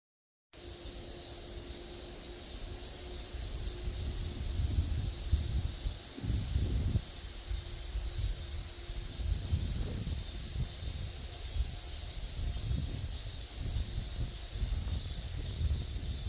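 Steady, high-pitched chirring of insects, several layers at once, over a low gusty rumble of wind on the microphone.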